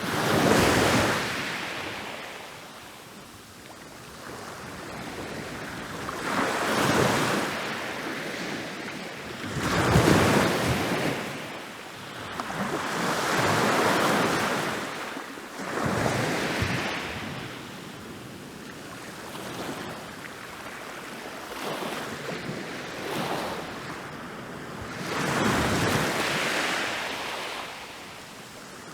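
Ocean waves rolling in and breaking on a beach, one after another, each surge of surf rising and then washing away every few seconds.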